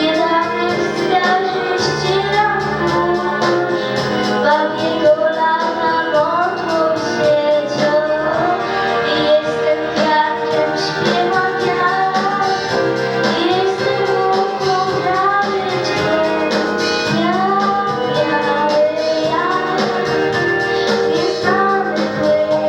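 A female vocalist singing a song solo over instrumental accompaniment.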